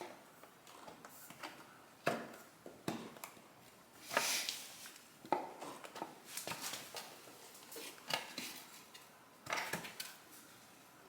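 Irregular light clicks, taps and clinks from small hard parts being handled and set down, with a couple of short rustles.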